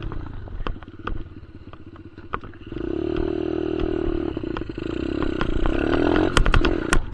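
Dirt bike engine running low and uneven, then revving up about two and a half seconds in and holding steady under throttle. A burst of sharp clattering knocks follows near the end.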